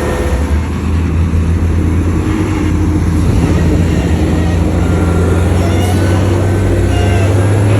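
Heavy diesel engine of earthmoving machinery running under load, a steady low drone that rises slightly near the end.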